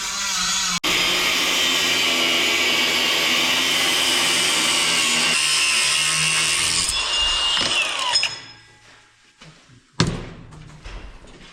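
A handheld power tool running steadily for about seven seconds, then winding down with a falling whine. A single sharp knock comes near the end.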